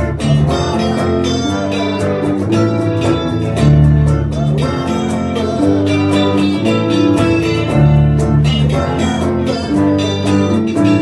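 Guitar strummed in a steady rhythm with a bass guitar playing along underneath, an instrumental passage of a rock song.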